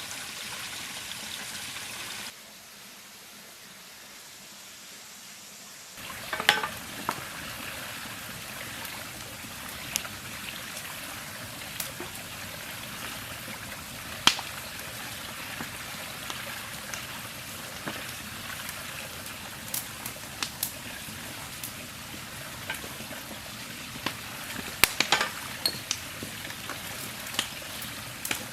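Wood campfire crackling with irregular sharp pops over the steady rush of river water; the crackle starts after a brief quieter stretch a few seconds in.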